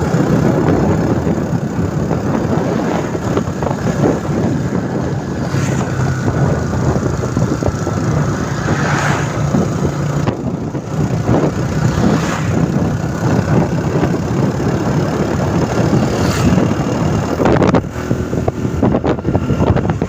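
Motorcycle engine running steadily while under way, with a rush of wind and road noise.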